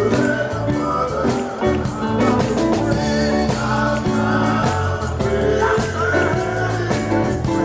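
Gospel band music with electric guitar, bass and a steady drum-kit beat, and a voice or guitar line wavering above it from about halfway through.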